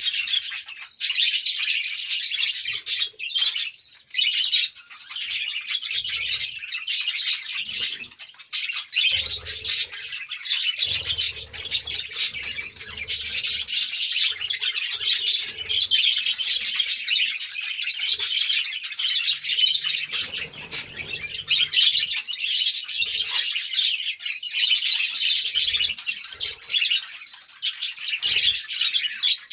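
A large flock of budgerigars chattering and warbling continuously, many birds calling at once.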